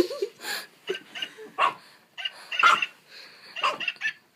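A puppy barking and yipping in a quick string of short barks.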